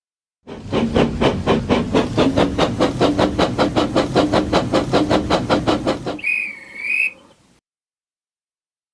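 Steam-locomotive sound effect from the James the Red Engine brick toy train: rapid, even chuffing at about four to five puffs a second, ending just after six seconds in with a wavering whistle blast of about a second.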